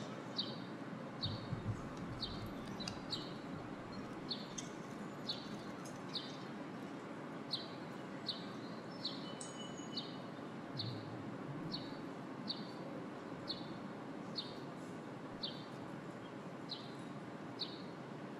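A bird chirping over and over: short, high, falling notes about twice a second, with one longer whistled note about ten seconds in, over steady outdoor background noise.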